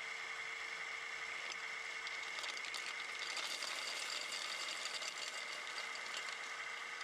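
Scale RC semi truck running: a steady high whine from the small electric drive, with light rattling and clicks that pick up in the middle.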